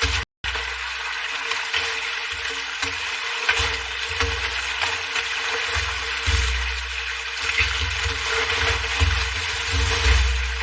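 Running water, a steady rushing with a low steady hum beneath it. Near the start the sound cuts out for a moment.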